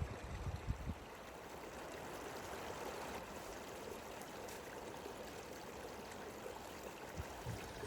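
Mountain creek flowing steadily, with a few low thumps in the first second.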